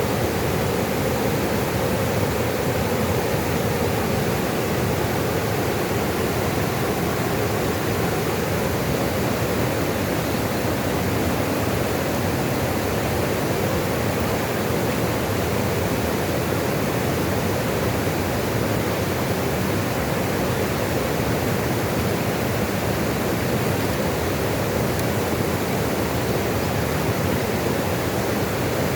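Running water making a steady, even rush with no distinct splashes or drops.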